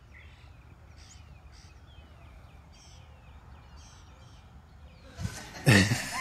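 Small birds chirping in short, gliding calls over a low steady outdoor rumble. About five seconds in, a much louder noisy sound suddenly breaks in.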